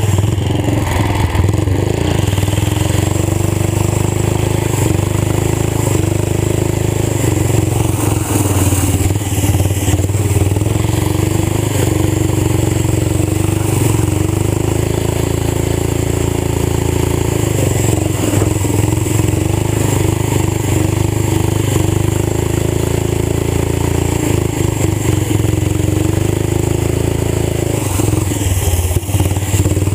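Old tractor engine running loud through a fully open exhaust, its pitch rising and falling a little as the revs change.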